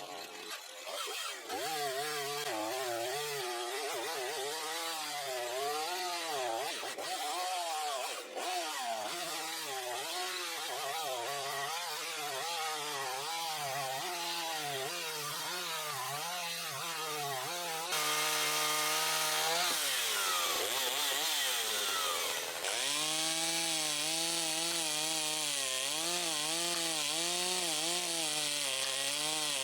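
Makita DCS5121 50 cc two-stroke chainsaw running under load as it cuts wood, the engine pitch swinging up and down about once a second. About two-thirds of the way through it holds a steady high rev, then drops and picks up again.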